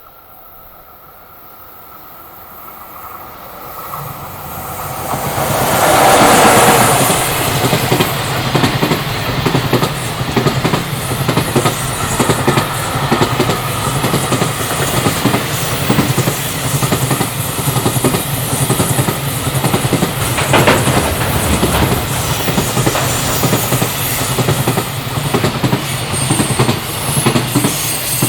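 Container freight train approaching and passing close by: the sound builds over the first few seconds to a loud peak about six seconds in as the locomotive goes past. Then a steady rhythmic clatter of wheels over the rail joints as the long line of container wagons rolls by.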